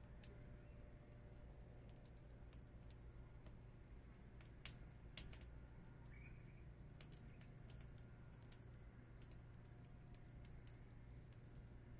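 Burning firewood crackling faintly: scattered sharp pops, the loudest two close together about five seconds in, over a low steady hum.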